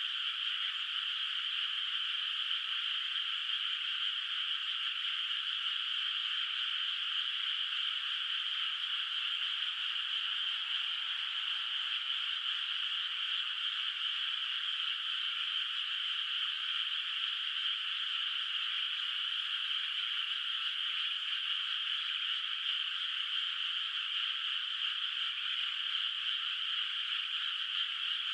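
A dense chorus of many frogs calling at once, a steady unbroken wash of croaking in which no single call stands out.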